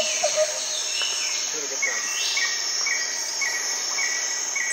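Insects buzzing steadily in the grass, with a short high chirp repeating about every two-thirds of a second from about two seconds in.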